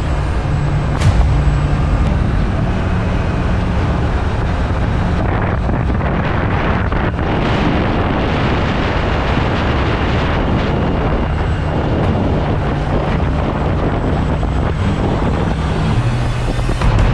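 Honda CBR650R's inline-four engine running steadily while riding, under a constant rush of wind and road noise.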